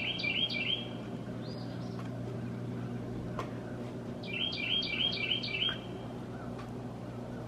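A songbird sings a quick phrase of about six repeated high notes twice, about four seconds apart, with a shorter call in between, over a steady low hum.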